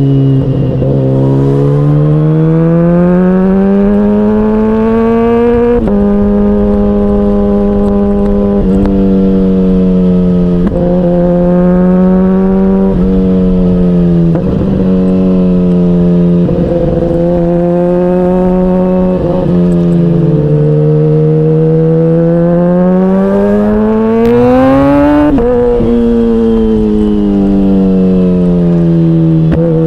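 KTM Duke 125 single-cylinder engine running under way. Its note climbs steadily as it pulls, drops sharply at upshifts about six seconds in and again near the end, and holds steady in between, with a rush of wind and road noise underneath.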